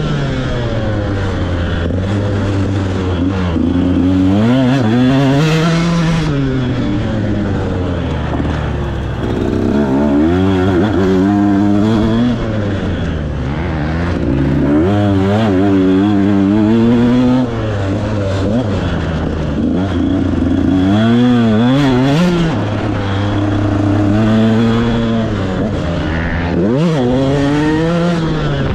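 KTM SX 125 two-stroke motocross engine revving up and down over and over, its pitch climbing and dropping every few seconds, over a steady lower drone.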